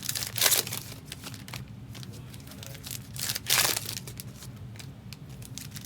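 Plastic trading-card packaging being torn open and crinkled, with two short bursts of tearing and crinkling, one near the start and a louder one a little past the middle.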